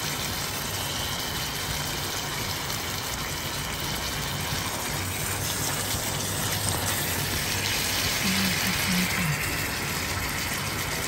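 Chicken and egg filling sizzling steadily in a non-stick wok on a high gas flame while it is stirred with a spatula.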